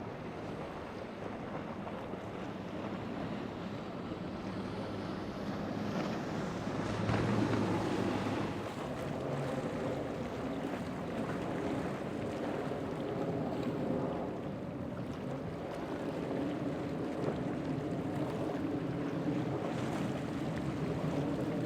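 Boat engines running over the noise of waves and wind on the microphone, swelling a little about seven seconds in.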